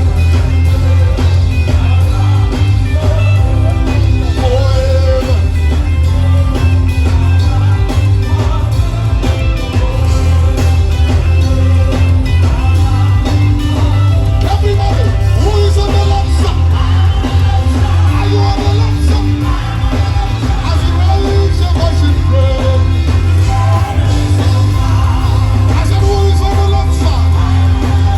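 Live gospel worship band playing loudly with a heavy bass, with the worship leader and congregation singing along.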